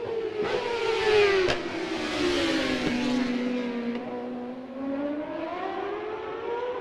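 Racing motorcycle engine, its pitch dropping as the bike slows and then climbing again as it accelerates away, with a louder rush between about one and three seconds in.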